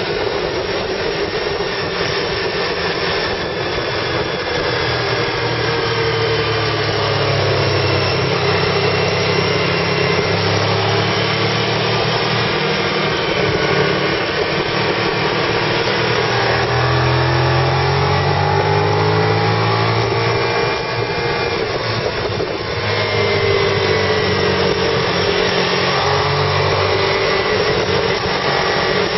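Car engine pulling with its transmission stuck in third gear, heard from inside the cabin with road and wind noise; the engine pitch rises and falls slowly with road speed and dips briefly about two-thirds of the way through.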